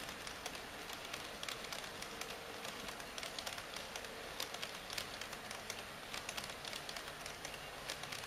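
HO-gauge model freight train of Taki 1000 tank wagons running on track: a dense, irregular clicking of metal wheels over rail joints and track, over a steady rolling hiss.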